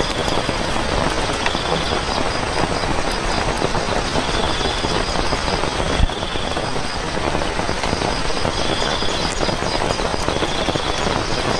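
Steady rain pattering, with a single thump about halfway through.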